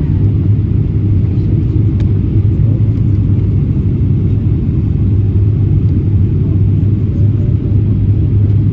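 Steady low rumble of a Boeing 777-300ER airliner, unchanging throughout.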